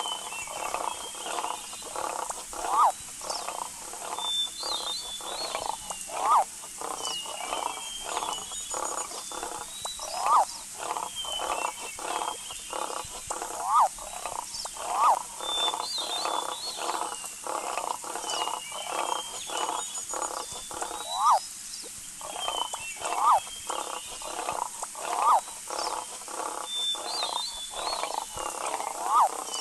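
Wild animal calls: a pulsing chorus of rapid croak-like calls, a short sharp rising call every few seconds that is the loudest thing, and high chirps over it.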